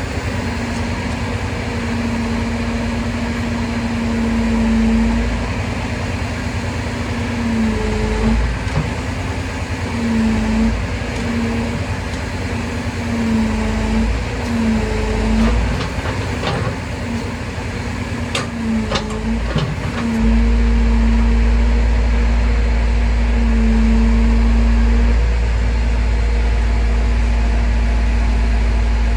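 Crane truck's engine running steadily, with a whine whose pitch dips briefly several times and a low rumble that gets louder about two-thirds of the way through. A few sharp clicks sound in the middle.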